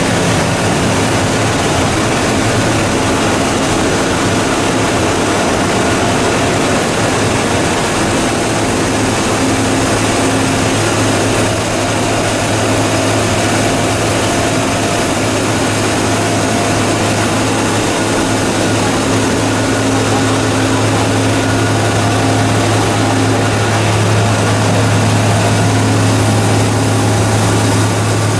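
Two-stage plastic recycling machine running steadily: a loud, continuous machine noise with a deep hum and fainter tones that waver in and out.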